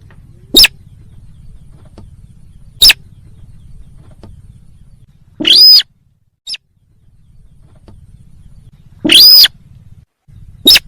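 Recorded sintar bird call played back loud as a hunting lure: two short sharp calls, a longer call that rises and falls, a faint short one, then another long call and a short one, spaced irregularly over a low steady hum.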